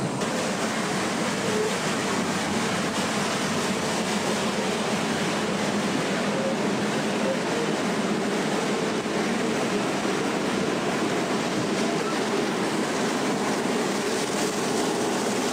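Steady running noise of a moving train, wheels rolling on the rails, heard from on board a carriage.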